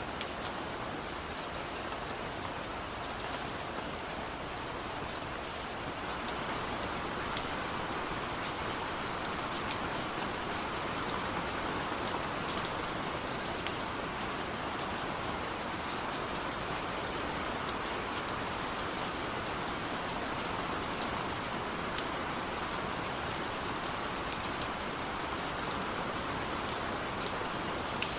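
Steady rain falling, with individual drops giving sharp ticks now and then; it grows slightly louder about six seconds in.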